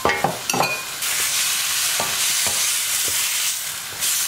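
Sliced sausages, onions and spices frying in a nonstick pan while a wooden spatula stirs them. There are a few scrapes of the spatula in the first second, then a steady sizzle.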